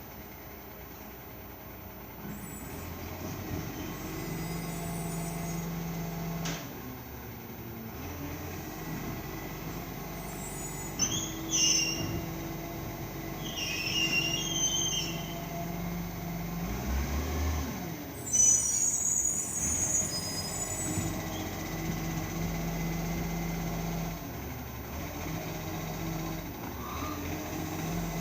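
Small green-waste collection truck running, its engine note steady but rising and falling in level. Several short high squeals or hisses come through the middle stretch, the loudest a little past halfway.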